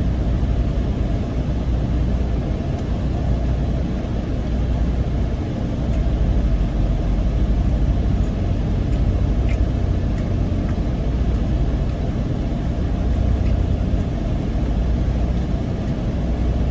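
Steady low rumble of a car or truck, engine and road noise, with a few faint ticks near the middle.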